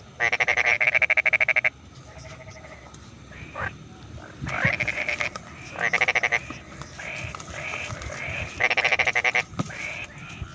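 Paddy-field frogs calling: a series of rapid pulsing, bleat-like calls, each up to about a second and a half long, the loudest right at the start and others about four and a half, six and eight and a half seconds in, with fainter calls between.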